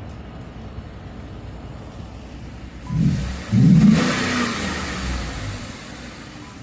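Ford F-150's 5.0 V8 through a Borla ATAK exhaust, idling with a low rumble, then revved twice: a short blip about three seconds in and a bigger rev just after that falls back slowly toward idle.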